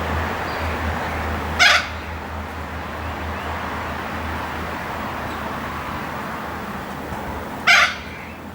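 Long-billed corella giving two short, harsh calls about six seconds apart, over a steady low background hum.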